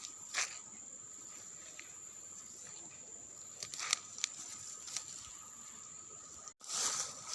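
Insects droning steadily at a high pitch, with scattered short rustles and snaps over them. The sound drops out briefly near the end and comes back noisier.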